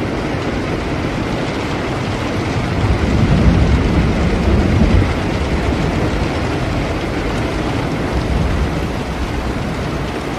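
Steady heavy rain with a low rumble of distant thunder that swells about three seconds in and fades back by about five seconds.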